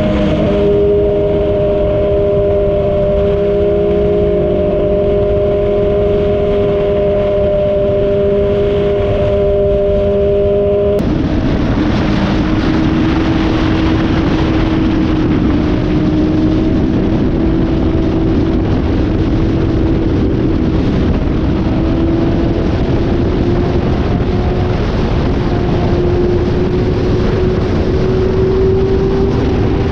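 Motorcycle engine running at steady speed under a loud rushing noise. A little over a third of the way through, the engine note drops suddenly, then climbs slowly.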